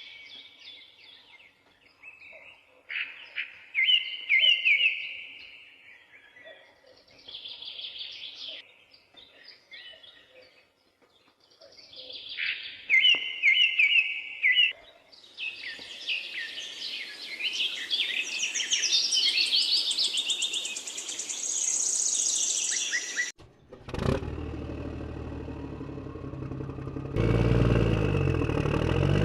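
Birds chirping and calling, many short high calls overlapping, for most of the stretch. About 24 seconds in they cut off abruptly and give way to a steady motor or engine hum, which gets louder and wavers in pitch a few seconds before the end.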